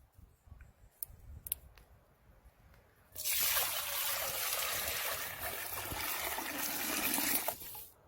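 Liquid poured in a steady stream for about four seconds, starting and stopping abruptly, after a few light knocks.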